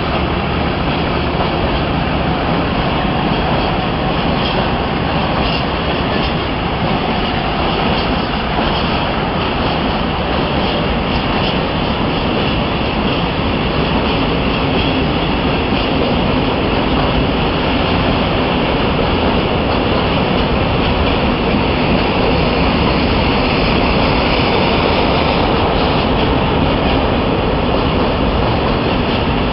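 BR 294 diesel-hydraulic shunting locomotive with a 1100 HP MTU engine working under load as it pulls a freight train past, then a long string of freight wagons rolling by on the track with a steady, loud rumble.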